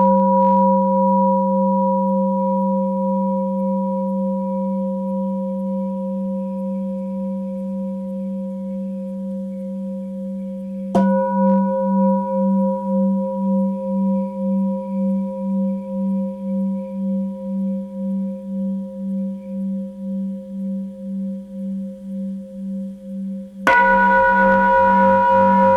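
Tibetan singing bowl ringing and slowly fading. It is struck again about eleven seconds in and once more near the end. After each strike its deep tone pulses in a slow wavering beat, about twice a second.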